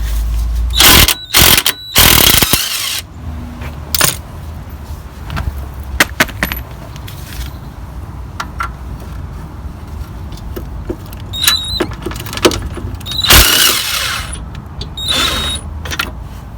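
Cordless impact driver run in short bursts, spinning out a 17mm brake caliper carrier bolt: three bursts near the start and two near the end, with metallic clinks in between.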